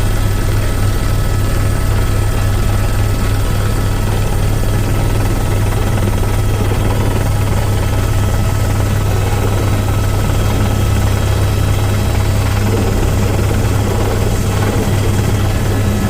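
Helicopter in flight: a steady, loud drone of engine and rotors, with a deep hum and a few faint steady whines above it.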